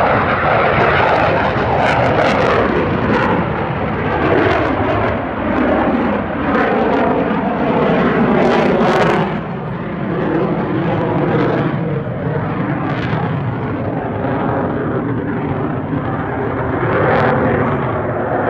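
Fixed-wing aircraft flying past loudly. Its engine note slides down in pitch around the middle as it passes.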